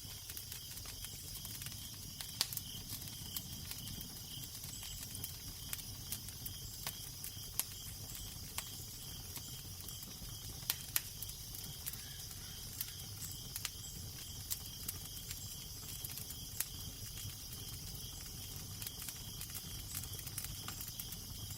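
Crackling fire: irregular sharp pops and snaps over a steady hiss, with a low, steady wind rumble underneath.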